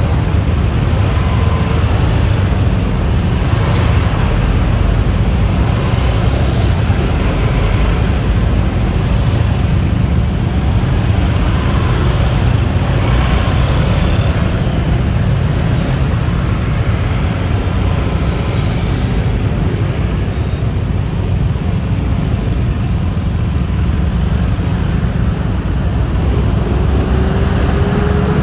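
Road noise on a moving Yamaha Lexi LX 155 S scooter: a steady, heavy low rumble of wind on the microphone mixed with tyre and traffic noise. Near the end there is a faint pitch glide from a passing vehicle.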